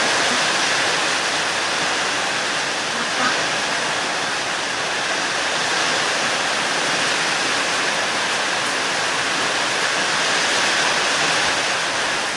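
Steady rain falling, an even continuous hiss, with one small tap about three seconds in.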